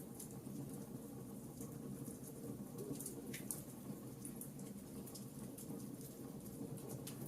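Logs burning in a fireplace, crackling with frequent small irregular snaps and a few louder pops over a low steady rush of the flames.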